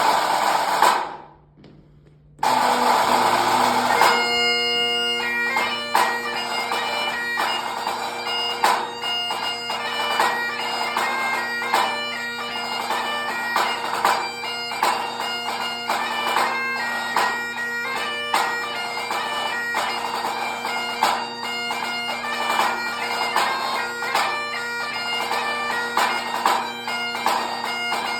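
Great Highland bagpipe striking in, drones first and then the chanter about four seconds in, playing a 2/4 march with a pipe band snare drum accompanying it in sharp, rapid strokes. It opens with a short loud snare roll.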